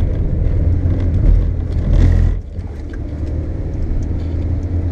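Volkswagen Golf's engine and tyres on a wet track heard from inside the cabin, a loud steady drone that drops away sharply about two and a half seconds in.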